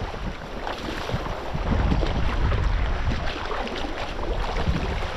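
Wind buffeting the microphone in an uneven low rumble, over the rush of moving water.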